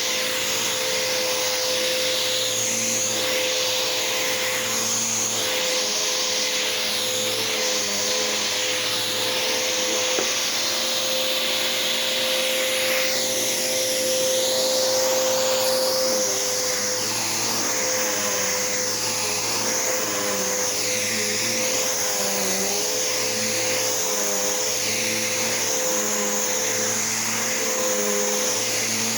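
Bissell PowerForce 71Y7-V bagged upright vacuum cleaner running on carpet, its steady motor whine dipping and recovering in pitch over and over as it is pushed back and forth.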